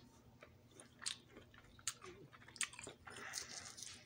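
A person chewing orange segments close to the microphone: scattered wet mouth clicks and smacks, with sharp ones about one, two and two and a half seconds in and a denser run of smacking near the end.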